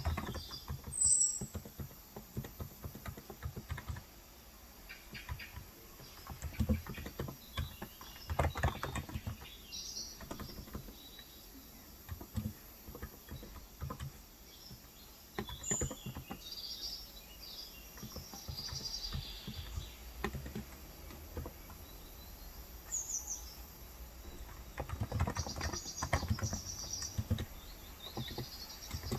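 Typing on a Cox Endeavor electrostatic capacitive (Topre-style, 35 g) tenkeyless keyboard in bursts of quick key clacks with pauses between. Birds chirp now and then in the background.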